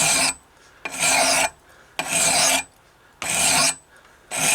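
Hand file rasping across the steel edge of a hatchet blade, sharpening it in regular strokes of about half a second each, roughly one a second.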